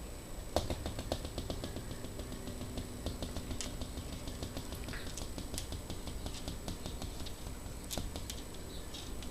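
Light, irregular clicks and taps, several a second, with a faint steady hum underneath.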